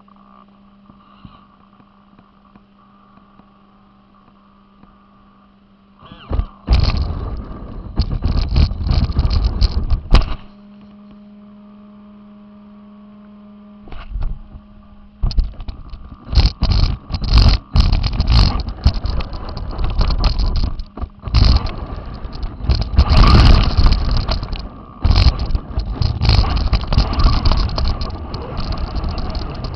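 Onboard sound of an RC car driving in spurts over rough ground. Loud stretches of motor, tyre and rattle noise come about six seconds in and again from about fifteen seconds on. Between them are pauses where only a steady hum is left.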